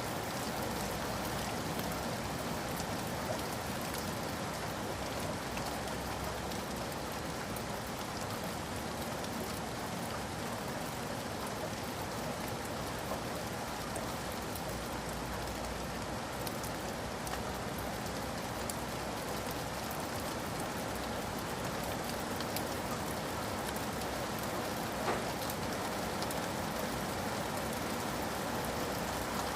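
Steady rain falling: an even hiss of drops on a surface, with a few faint ticks.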